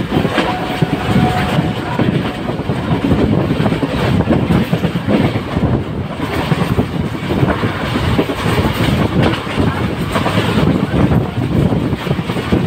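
Passenger coach running at about 110 km/h, heard from its open door: steady rumble of wheels on rails with a dense clickety-clack of rail joints and points.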